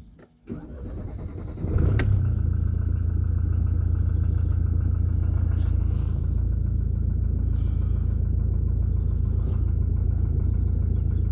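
Mercedes OM651 four-cylinder diesel idling cold. The owner says it knocks, cold or hot, which he takes to be a harmless knock from somewhere on top of the engine. The engine sound comes up about two seconds in, just after a sharp click, and then holds steady.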